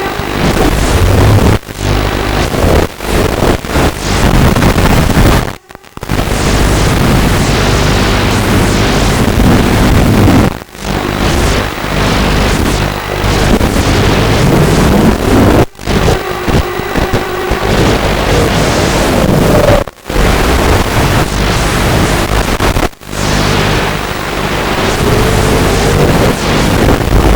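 Small racing quadcopter's motors and propellers heard from on board, loud and distorted by wind on the microphone, whining up and down in pitch as the throttle changes. The sound cuts out abruptly several times.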